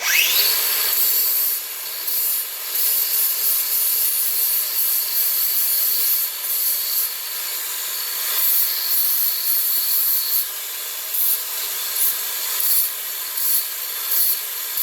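An electric grinder spins up and grinds the steel of a hatchet head, touching up the uneven chamfer on the bit, with a steady high whine under a rough grinding noise that surges and eases as the head is worked against it.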